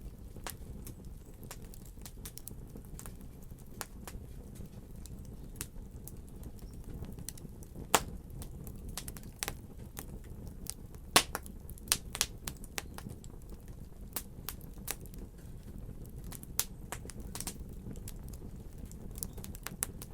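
Fire crackling: irregular sharp pops and snaps over a steady low rumble, with the loudest snaps about eight and eleven seconds in.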